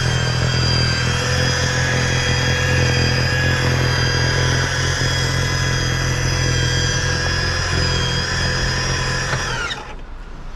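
A small engine running steadily at high speed, then shut off about ten seconds in, its pitch falling quickly as it winds down.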